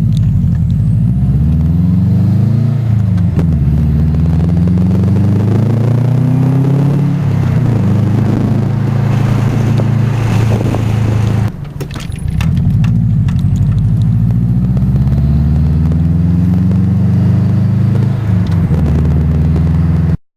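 2005 Subaru WRX turbocharged flat-four running hard through a catless turboback exhaust, its pitch climbing and dropping back several times. The sound dips briefly about halfway through and cuts off suddenly at the end.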